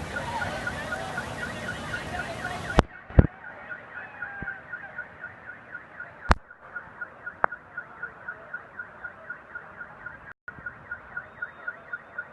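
Heavy rain hiss that cuts off abruptly a few seconds in, leaving a quieter background. Through it all a car alarm chirps steadily, about three short beeps a second, and a few sharp clicks come in the middle.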